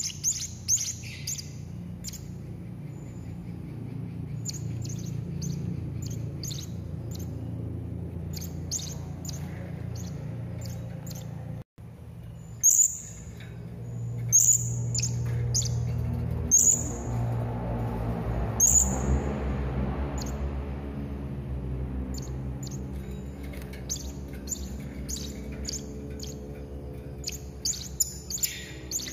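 Serindit (hanging parrot) calling: rapid clusters of short, sharp, high-pitched chirps, with a few louder single calls in the middle, over a steady low hum.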